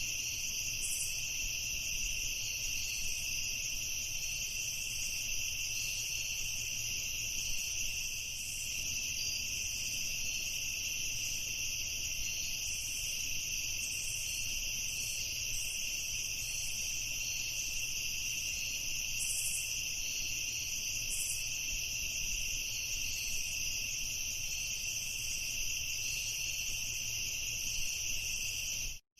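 Crickets chirping in a steady, high-pitched chorus that cuts out for a moment just before the end.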